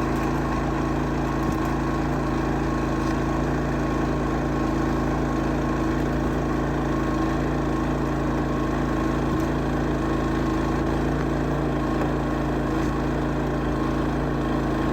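An engine running steadily at constant speed: an even hum that neither rises nor falls.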